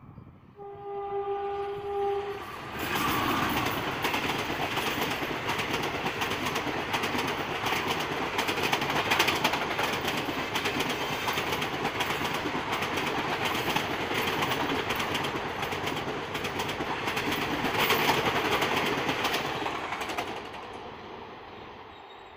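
A WAP-4 electric locomotive's horn sounds one steady note for about two seconds. Then a train of ICF coaches passes close at speed, with a continuous loud rush and fast wheel clatter that fades away near the end.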